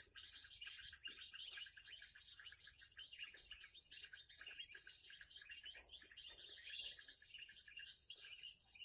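Faint, continuous chorus of small birds chirping and insects trilling, a dense, unbroken stream of short high chirps.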